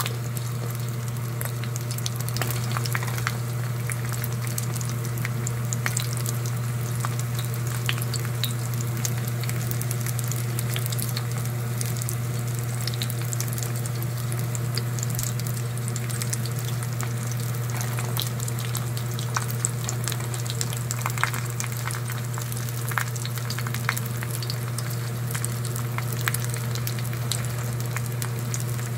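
Battered pork pieces frying in hot oil: a steady sizzle peppered with sharp crackles and pops, over a constant low hum.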